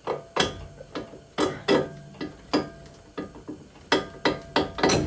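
About a dozen sharp metallic knocks and clanks at an uneven pace, some ringing briefly, as two bolts are worked out of a car's front steering knuckle.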